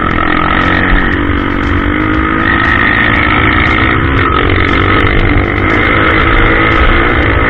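Trail motorcycle engine running steadily under way, with a dense low rumble beneath the engine note.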